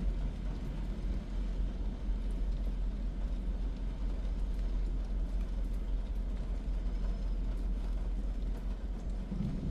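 Car driving on the road: a steady low rumble of engine and road noise with an even haze over it.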